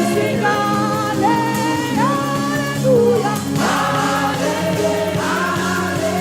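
Gospel praise music: several voices singing long held, sliding notes over a steady band accompaniment.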